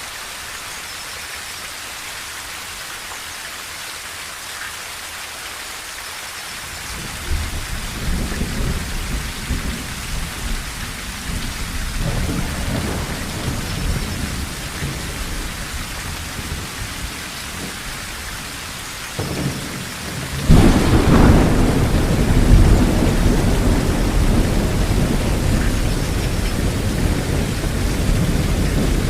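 Steady rain on a tin roof with thunder: a low rumble builds about seven seconds in and fades, then a louder thunderclap about twenty seconds in rolls on to the end.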